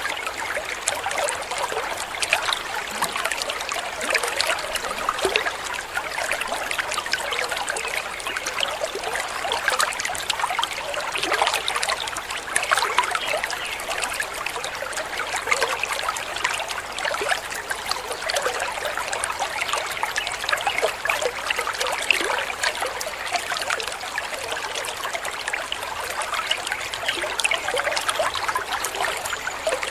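Water of a small waterfall splashing and trickling steadily, a dense, even rush of droplets with no breaks.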